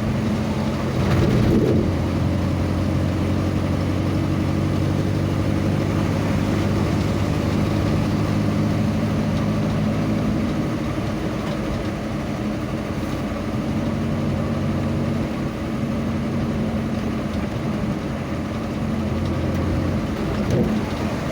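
A vehicle engine running steadily on the move, a low even hum. There are brief louder swells about a second in and again near the end.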